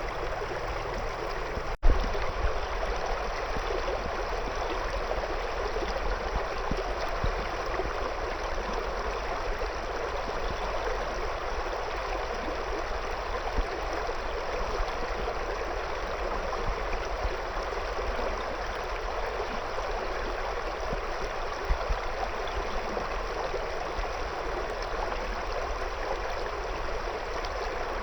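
River water flowing steadily around stones, an even rushing and gurgling. About two seconds in there is a brief dropout followed by a sharp click.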